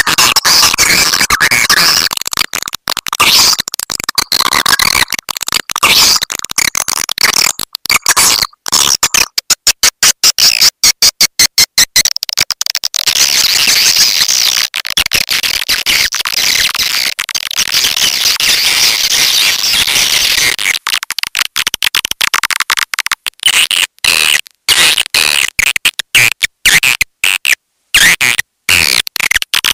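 Swiftlet call track: dense, loud chattering of high twittering chirps, with a fast even run of clicks about nine to twelve seconds in. It is a recorded 'petir'-type swiftlet lure call, of the kind played to draw swiftlets into a nesting house.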